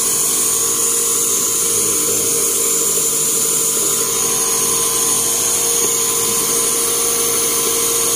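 A 2009 Toyota Camry's newly installed replacement engine running steadily, with a constant whine over the engine noise.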